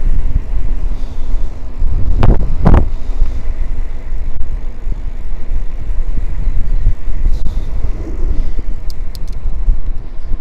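Headwind buffeting the microphone of a moving mountain bike, a loud, constant low rumble, with two sharp knocks about two seconds in.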